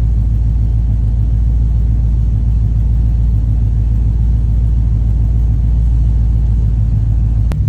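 Ford Crown Victoria's 4.6-litre V8 idling steadily, heard from inside the car. There is a single short click near the end.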